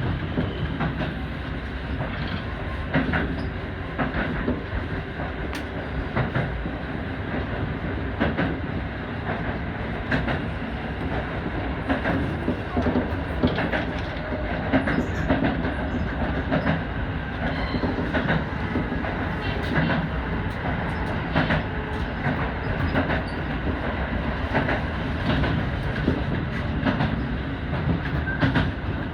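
Electric commuter train running along the line, heard from inside the front car: a steady rumble of wheels on rail with frequent clicks as the wheels pass over rail joints.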